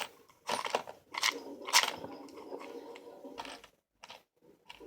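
Clicks and scraping of small toy-train parts being handled at a workbench, with several sharp clicks in the first two seconds and a rough scraping sound from about two seconds in.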